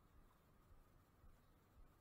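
Near silence: faint low rumble with a thin steady tone underneath.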